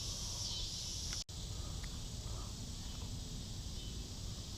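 Steady high-pitched buzzing chorus of insects over a low rumble. The sound cuts out for an instant just over a second in, and the buzzing is a little weaker after it.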